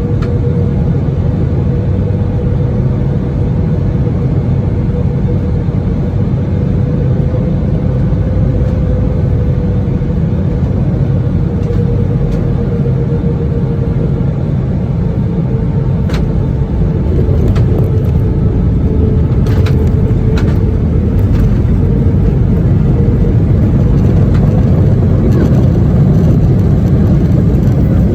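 Airbus A319 cabin noise during the landing: the steady roar of its International Aero V2522-A5 turbofans and airflow, with a steady engine tone that drifts slowly lower. A few sharp clicks come in the middle, and the roar grows louder about two-thirds of the way through.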